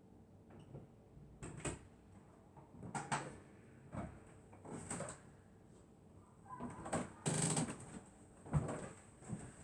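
Sleeping dog snoring, a short noisy breath about every second, with a longer, louder one about seven seconds in and a brief thump soon after.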